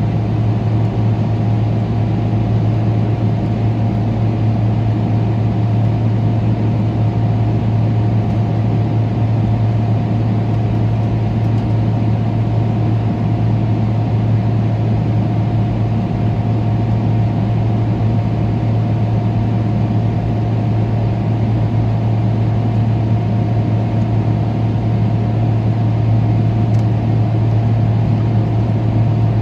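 Steady drone of a Boeing 777-300ER's GE90 engines and airflow heard inside the passenger cabin: a strong low hum with fainter steady higher tones and an even rushing noise, unchanging throughout.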